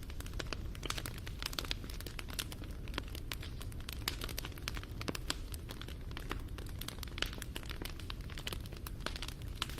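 Wood fire crackling and popping: a steady low rumble of flame with many quick, irregular snaps.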